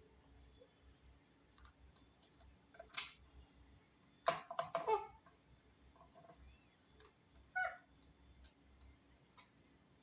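Pet parrot giving short calls: one about three seconds in, a quick cluster of several around four to five seconds, and one more near eight seconds.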